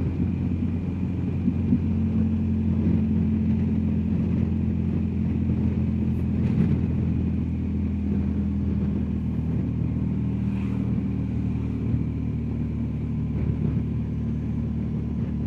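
BMW R1250GS Adventure's boxer-twin engine running steadily at low road speed, held in a low gear, with wind and road noise. The engine note stays even throughout, with no change of gear or surge of throttle.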